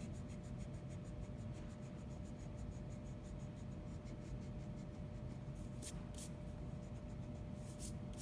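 Pencil drawing lines along a ruler on paper: a faint, even scratching, with a few short, sharper strokes in the second half.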